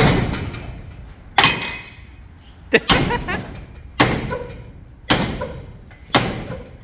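Hammer blows driving a steel rod into a car muffler to break out its honeycomb core, about one strike a second, each hit ringing briefly in the metal.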